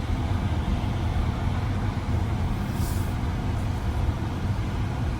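Car being driven, with a steady low rumble of engine and road noise and a brief hiss about three seconds in.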